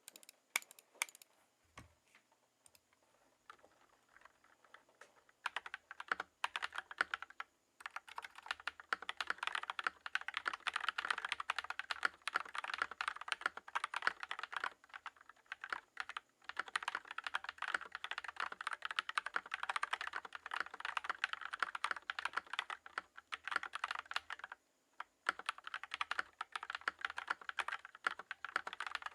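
Typing test on a Tom680 65% mechanical keyboard fitted with Tex ADA profile keycaps, stock switches. A few scattered keystrokes come first, then fast continuous typing with a few short pauses.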